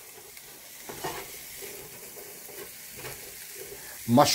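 Sliced mushrooms sizzling in olive oil and butter in a nonstick frying pan, with a spatula stirring them a couple of times.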